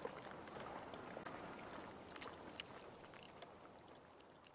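Rain falling on water: a steady hiss with scattered drop splashes, fading out toward the end.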